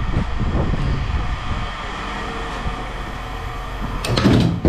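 Steady low rumble of a motor vehicle running, with a brief loud clatter about four seconds in.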